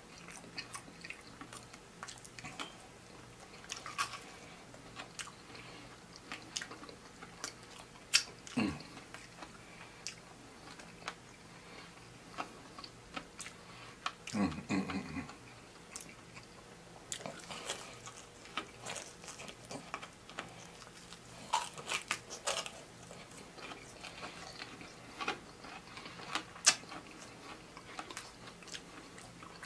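A person chewing and biting into fried chicken wings, with many irregular sharp mouth clicks and smacks.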